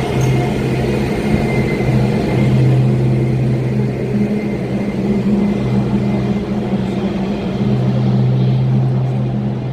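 Diesel train engine running with a loud, steady low drone that holds its pitch throughout.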